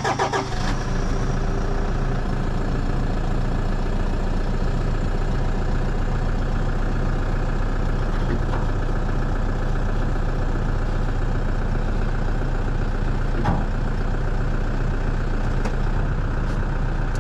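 Toyota Hilux four-wheel-drive ute's engine running steadily at low revs as the vehicle creeps forward, towing a tipped sawmill frame upright on a strap.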